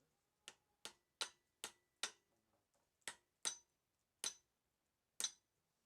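About nine sharp clicks or taps, unevenly spaced, some followed by a brief high ring.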